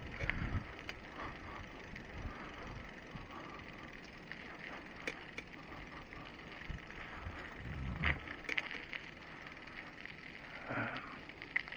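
Bicycle being ridden: a steady noise of tyres on the path, with scattered light clicks and rattles from the bike and a dull knock about eight seconds in.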